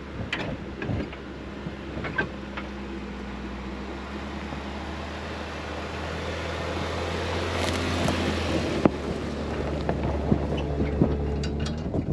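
Off-road vehicle driving over a rough desert riverbed: a steady low engine drone under tyre and road noise that grows louder, with scattered knocks and rattles from the rough ground.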